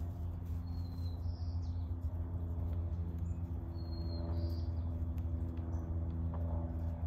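A steady low mechanical hum made of an even stack of tones runs throughout. Two short, high bird chirps come over it, about a second in and again about four seconds in.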